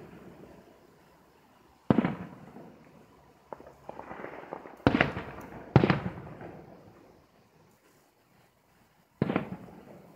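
Aerial firework shells bursting: four loud booms, about two, five, six and nine seconds in, each dying away in a rolling echo, with a smaller bang before the second boom.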